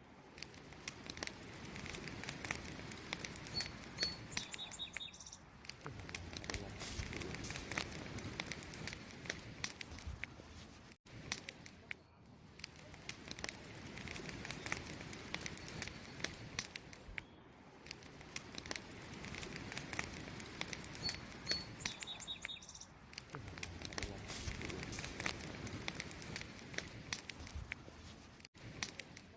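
Wood campfire burning with dense, irregular crackling and popping that swells and eases. Twice, a few brief high chirps are heard over the crackle.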